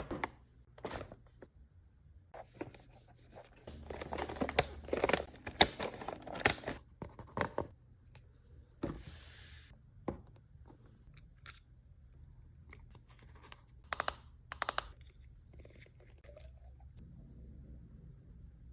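Store-bought slime being handled, with a run of sharp crackling clicks and pops and a short rush of noise about nine seconds in.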